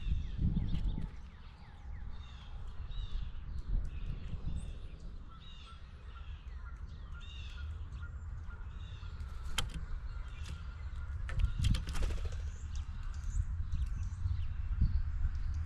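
Birds calling outdoors in a run of short, repeated calls, with a few sharp taps later on and a steady low rumble underneath.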